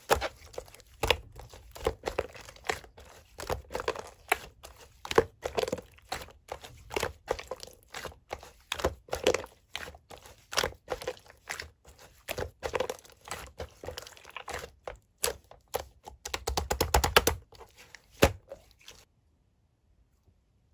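Slime being squished and pressed by hand, giving an irregular run of sharp clicks and pops, with a quick flurry of them near the end before it stops.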